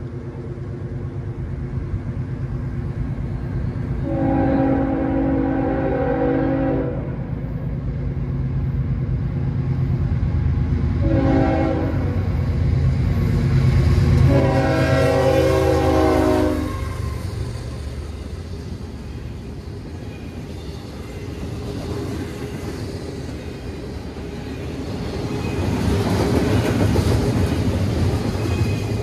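Diesel freight locomotive sounding its air horn for the grade crossing in three chord blasts, long, short, then long, over the low rumble of its engine as it arrives. After the horn, the rumble and rattle of double-stack container cars rolling past fills the rest.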